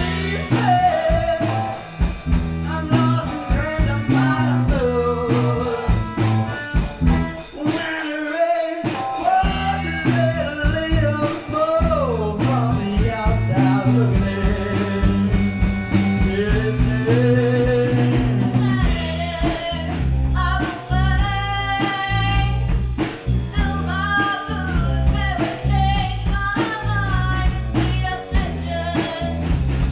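Live gypsy rock band playing a song: a male lead voice sings over electric guitar, bass and a drum kit, with a steady beat throughout.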